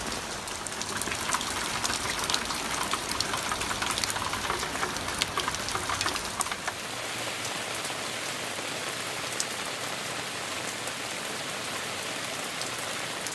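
Heavy rain falling: a steady hiss of rain with many sharp drop strikes, thicker in the first half.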